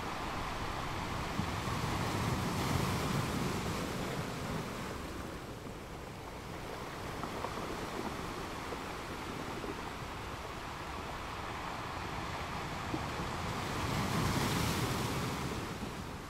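Choppy sea water washing and splashing, with wind buffeting the microphone. It swells louder twice, a few seconds in and again near the end.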